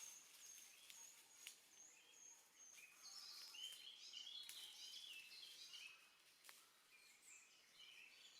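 Faint woodland birdsong: a thin, high note repeated about twice a second, then warbling song from about three seconds in. A few faint sharp clicks.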